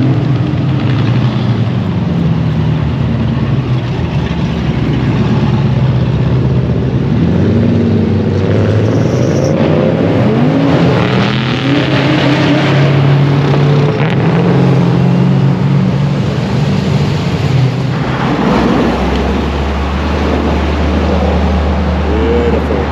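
Loud modified car engines rumbling at low speed, with several revs rising and falling in the middle as cars move past.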